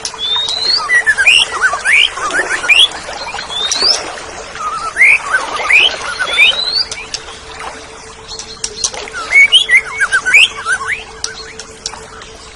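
Oriental magpie-robin (kacer) singing loudly: a rapid, varied run of sharply rising whistles and quick chirps. A faint steady low hum runs underneath.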